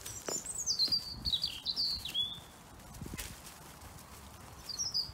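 A garden songbird singing: a quick run of high notes stepping down in pitch for about two seconds, then a second phrase starting near the end. Soft low thumps underneath.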